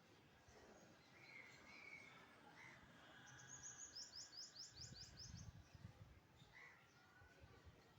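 Small birds chirping faintly, with a quick trill of about ten high notes in the middle, over a faint low rumble.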